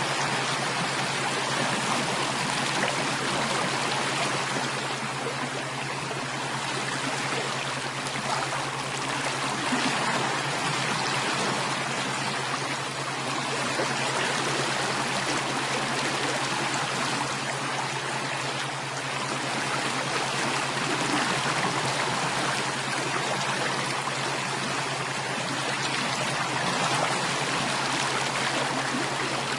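Running water of a stream, a steady even rush with no breaks, over a steady low hum.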